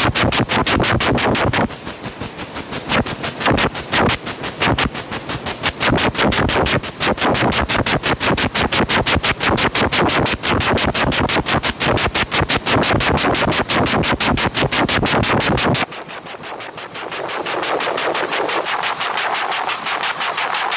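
Textile factory machine running with a rapid, even mechanical clatter of about eight strokes a second. About 16 s in, the clatter stops suddenly, leaving a quieter steady whirring noise.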